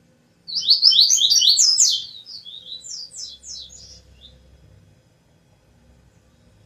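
A small songbird singing one loud phrase of rapid, high chirping notes, starting about half a second in, that tails off into a few softer notes.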